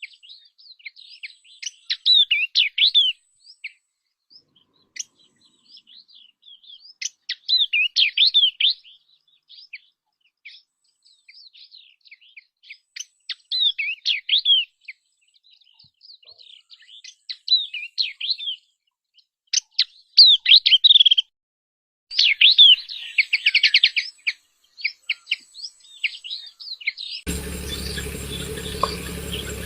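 Yellow-eyed babbler singing: quick runs of high chirps with a louder burst of rapid notes every five or six seconds. A steady hum and hiss come in near the end.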